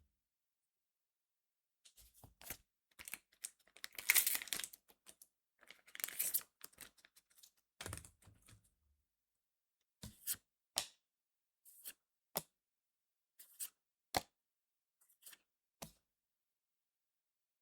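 A trading-card booster pack wrapper being torn open, with crinkling and ripping for several seconds, loudest in two pulls. It is followed by about a dozen separate short, sharp clicks as the cards are handled.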